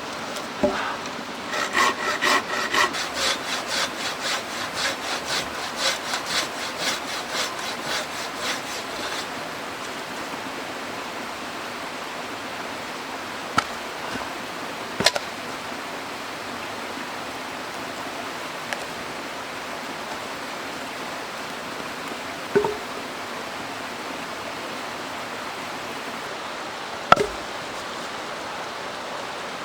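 Hand saw cutting through wood in even back-and-forth strokes, about two a second, for several seconds, then stopping. A steady rush of stream water runs underneath, with a few sharp single knocks later on.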